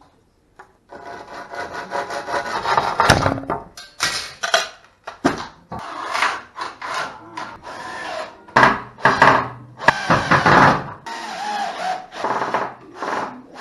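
An irregular series of rough scraping strokes, each under a second long.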